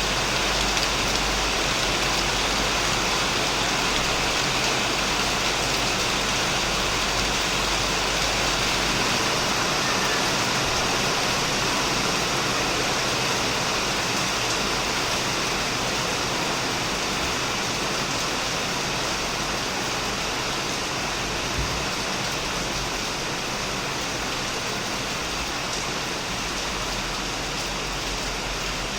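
Heavy rain falling steadily on a shed roof and plants, an even, unbroken hiss of dense drops.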